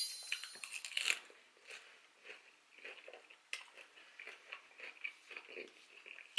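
Close-up, quiet chewing and crunching of a mouthful of salad, with soft irregular crunches and a louder bite about a second in.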